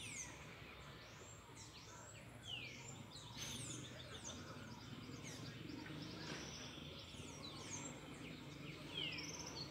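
Small birds chirping, many quick downward-sweeping calls overlapping, over a faint low steady hum.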